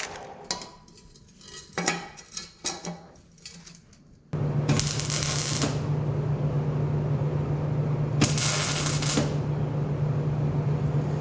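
Light metallic clinks and knocks from pieces of steel exhaust pipe being handled. About four seconds in, a steady low hum starts suddenly, and two loud bursts of hiss of about a second each follow.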